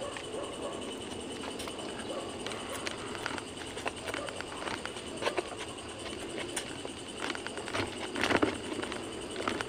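Close eating sounds of a person eating grilled fish and rice by hand: wet chewing and lip smacks with scattered small clicks, and a louder smack about eight seconds in, over a faint steady high-pitched tone.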